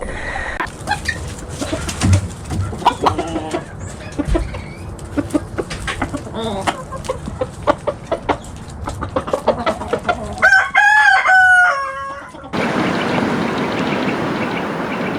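Chickens clucking among scattered short knocks, then a rooster crows once, about two seconds long, with a drop in pitch near its end. After the crow, an even rushing noise takes over.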